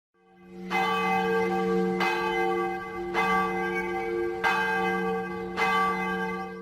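A bell ringing, struck about five times at roughly one-second intervals, its tone sounding on between strikes and fading out at the end.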